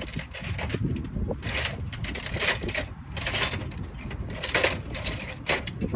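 Ratchet wrench being worked in short strokes, about one a second, each stroke a quick run of clicks.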